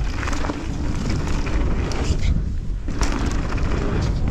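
Mountain bike rolling fast down a dirt trail: tyre noise and frame and chain rattle under wind buffeting the camera microphone, with a sharp knock about three seconds in.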